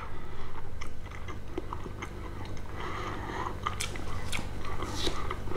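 A man chewing a mouthful of soft pancake, with small wet mouth sounds and a few light clicks.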